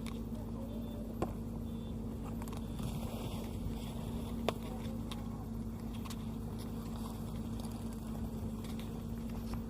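Combine harvester engine running steadily at an even pitch, with two sharp clicks about a second and four and a half seconds in.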